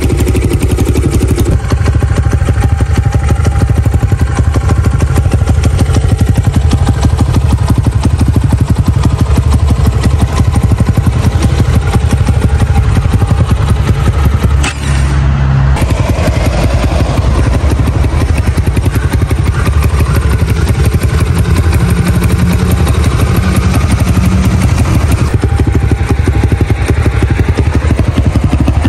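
Leramotors Thunder 250 cc pit bike's single-cylinder four-stroke ZongShen CB250 engine running through its tuned exhaust, with a brief break about halfway through.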